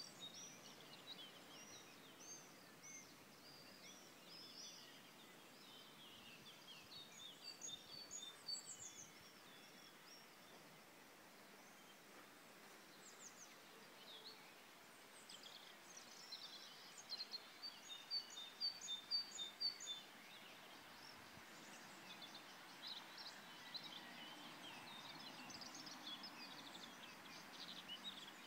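Several songbirds singing and chirping, with short high notes coming and going throughout over a faint steady hiss. One bird repeats a quick run of identical notes, briefly about a third of the way in and more loudly a little past the middle.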